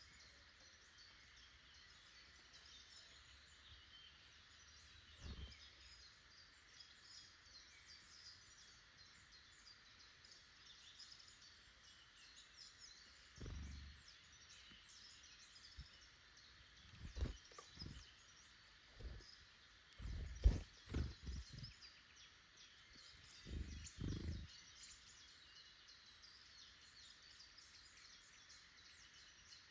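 Faint woodland birdsong: many small chirps and calls from several birds at once. A run of low, dull thumps and bumps comes in the middle stretch, the loudest about two-thirds of the way through.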